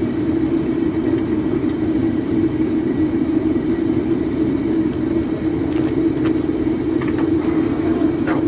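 Homemade propane-fired melting furnace running, its burner giving a steady, constant rushing rumble. A few faint clicks come in over it in the last few seconds.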